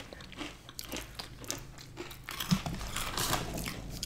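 Close-miked crunchy chewing: food being bitten and chewed, a run of small, irregular crisp crunches.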